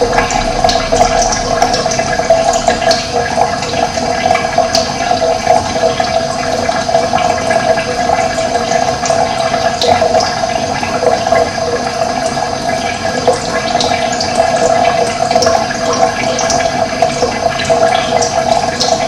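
Running water rushing steadily, with no break.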